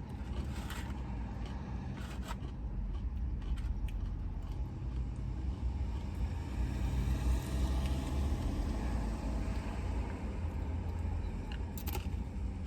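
Steady low rumble of a car's engine heard from inside the cabin, with a broad swell of passing-traffic noise around the middle and a few small crunches of food being eaten.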